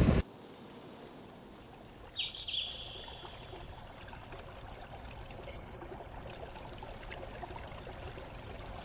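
Steady rush of water, the surf or running water of the coast, with two short high bird calls, one about two seconds in and a higher one about five and a half seconds in.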